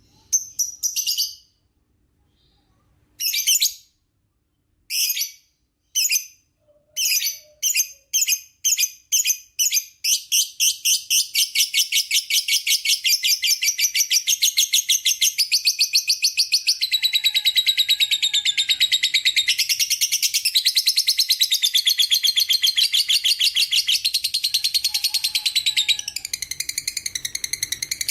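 Lovebird calling: separate high chirps that come faster and faster, then about ten seconds in run together into a long, unbroken rapid chatter, the prized 'ngekek panjang' song of a singing lovebird.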